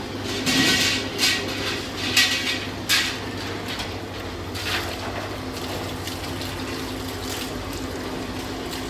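Steady machine hum with about five short hissing bursts in the first five seconds, then only the hum.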